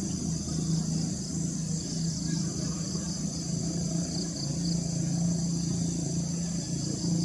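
Steady, high-pitched chorus of insects buzzing without a break, over a low, even hum.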